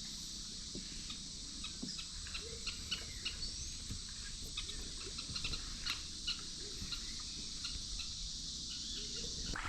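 Rainforest ambience: a steady high insect drone with many short, scattered bird chirps and calls, some sliding in pitch.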